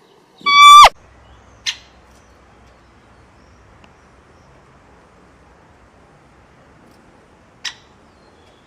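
A bird's single loud, clear call, held level and then dropping in pitch at its end, followed by two short faint clicks, one shortly after and one near the end.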